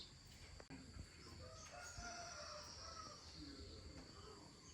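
A rooster crowing faintly in the distance, one long held call, over near silence with a faint steady high whine.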